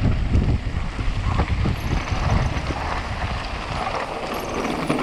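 Wind buffeting a rider-mounted camera's microphone while a mountain bike descends fast over rough ground, with irregular knocks and rattles from the bike and tyres.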